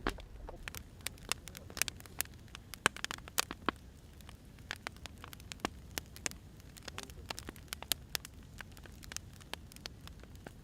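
Wood fire crackling: irregular sharp pops and snaps of burning firewood over a faint steady hiss.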